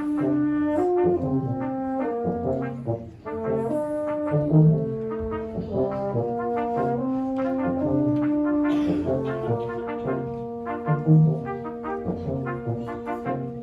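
A brass quartet playing a slow, lyrical passage: several held notes moving together in harmony, with a low bass note sounding again every few seconds.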